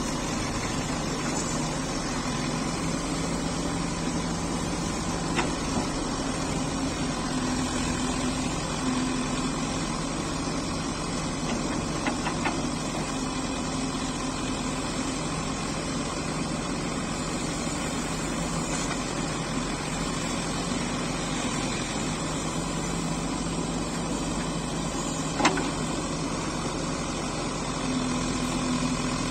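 Backhoe loader's diesel engine running steadily at work, its pitch rising a little now and then as it takes load, with a few sharp knocks of metal against soil.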